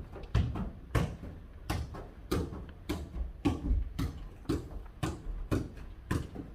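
A ball being kicked back and forth in a jokgu (foot-volleyball) rally: a steady string of sharp thumps, about three every two seconds.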